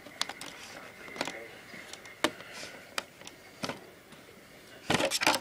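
Scattered sharp clicks and taps from a Losi Desert Truck RC car being handled and worked on by hand, about one every second, with a quick run of clicks near the end.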